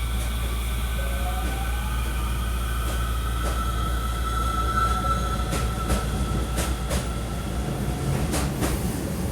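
Railway train noise at a station stop: a steady low hum under a thin, drawn-out squealing tone, with a short rising tone about a second in. A run of sharp clicks comes in the second half.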